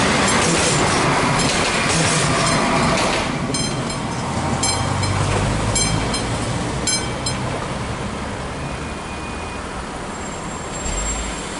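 Trilex RegioShuttle diesel railcar running over a level crossing, its noise dropping away after about three seconds. An AŽD crossing bell rings about once a second, stopping about seven seconds in, and a car draws up to the crossing near the end.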